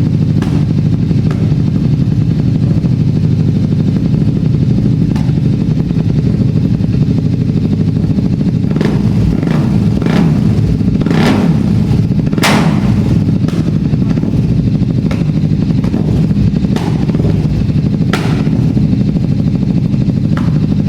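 Superbike engine idling steadily and loudly, with scattered sharp clicks or clatter over it.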